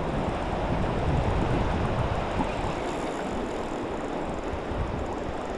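Steady rushing of river water, with some wind buffeting the microphone.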